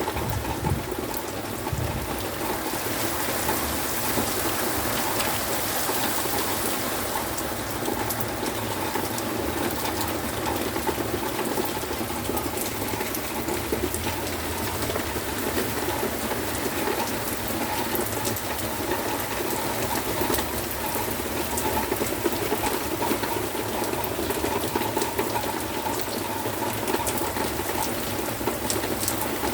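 Heavy rain pouring steadily, a dense even hiss of falling water with scattered drop ticks.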